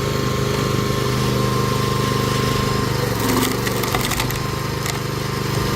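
Hydraulic log splitter running with a steady drive hum while a log is forced apart, the wood cracking and splintering about three to five seconds in.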